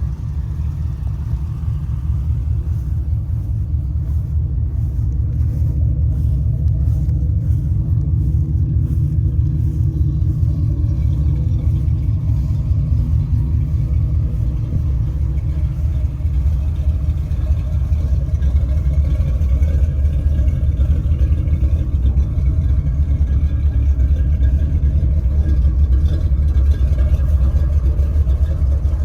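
Steady, deep vehicle rumble that grows slowly louder.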